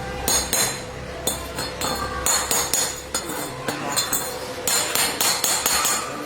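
Repeated sharp metallic taps, like a hammer striking metal, about two to three strikes a second at an uneven pace, over a faint steady hum.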